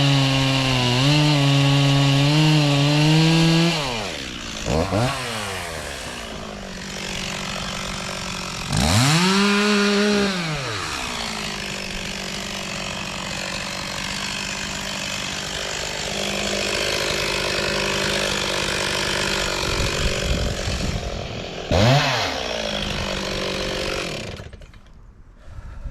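Stihl MS260 two-stroke chainsaw cutting through larch logs, at first held at a steady high pitch under load. It then drops off, is blipped up and down a few times with lower running in between, and shuts off near the end. The chain isn't all that good and one log was very hard.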